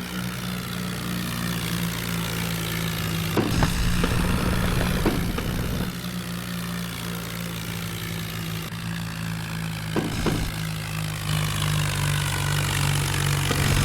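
Tractor engine running steadily, with a few short knocks.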